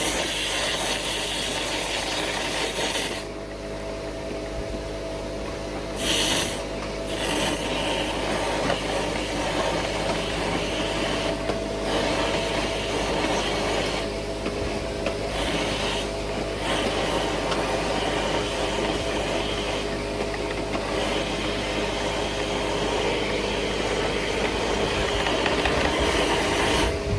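Dryer vent cleaning equipment running: a steady motor sound with a rubbing, rasping noise over it, dipping briefly several times.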